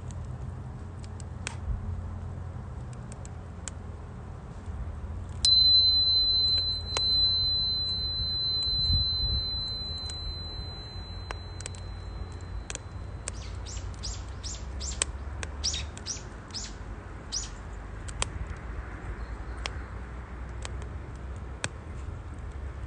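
Wood fire burning in a small stove, crackling with scattered sharp pops over a low rumble. About five seconds in, a steady high whistle starts suddenly and holds for about eight seconds. A quick run of short high chirps follows it.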